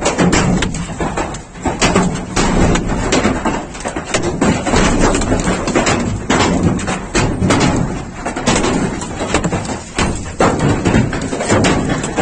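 Very large hailstones pounding down in a dense, irregular barrage of hard knocks and thuds, over a constant roar of the storm.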